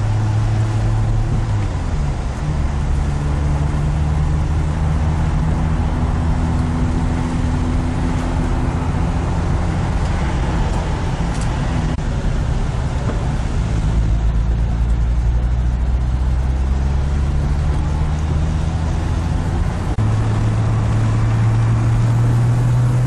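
Turbocharged PRV V6 of an MVS Venturi 200 heard from inside the cabin while driving on a wet road, engine note steady with tyre and road noise. Its pitch changes about two seconds in and steps up again near the end, climbing as the car accelerates.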